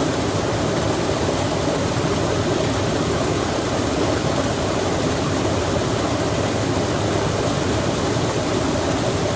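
Running water rushing steadily, an even, unchanging noise with no separate events.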